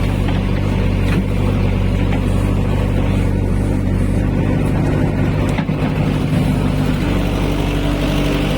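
Heavy diesel engine running at a steady speed, with a brief dip and a change in its note a little past the middle.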